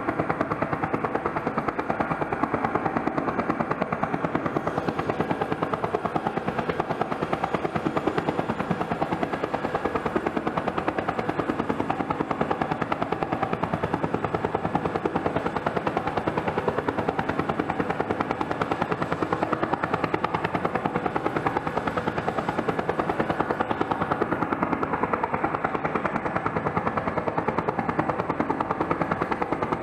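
Twin-turbine Bell helicopter running during engine start-up, with a steady, fast rotor chop over the engine noise.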